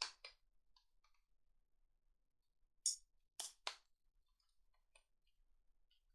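Plastic segments of a Rubik's Snake clicking into place as they are twisted. There is a sharp click at the start, then a louder one about three seconds in, followed by two more in quick succession, with faint ticks between.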